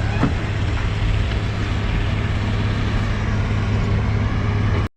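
Truck engine and road noise while driving: a steady low hum over a rushing haze, which cuts off abruptly near the end.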